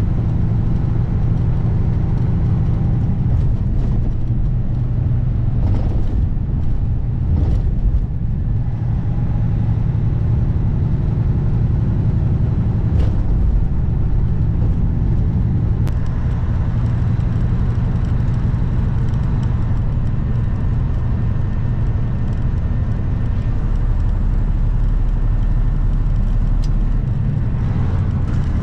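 A 2021 Kenworth W900 semi truck's diesel engine running steadily as the truck drives, a constant low drone with road noise over it.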